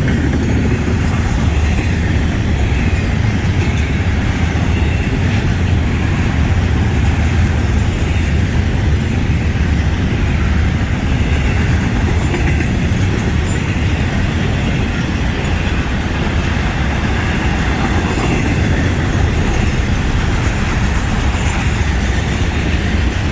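Florida East Coast Railway freight train's cars rolling past close by: a steady rumble of steel wheels on rail.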